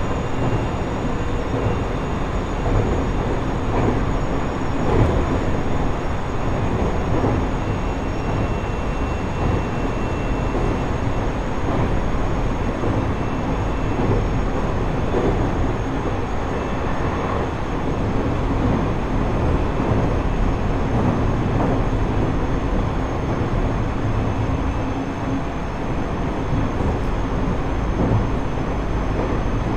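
JR East E127 series electric train (motor car KuMoHa E127-11) running steadily at speed, heard from inside the car: an even rumble of wheels on rail with faint steady tones from the traction gearing. This car's gear whine is known to carry an extra tone a semitone above the usual note.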